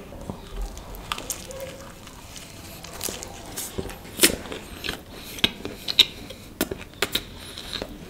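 A person bites into a slice of cheese burst pizza and chews it, close to the microphone, with many small irregular clicks and crackles of mouth sounds.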